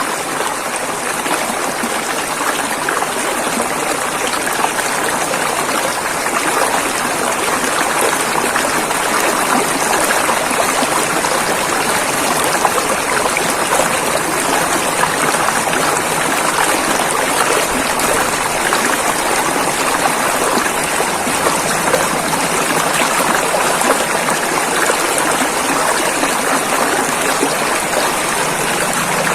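River water rushing and burbling over rocks, a steady full-bodied flow.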